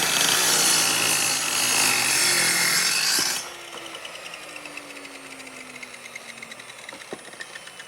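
Electric power tool working wood, loud for about three seconds, then switched off. Its motor winds down with a faint falling hum.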